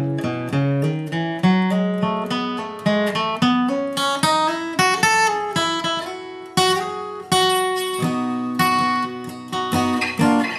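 Acoustic guitar flatpicked note by note, a bluegrass lead line of several notes a second that moves through the low and middle strings, with the last notes left to ring.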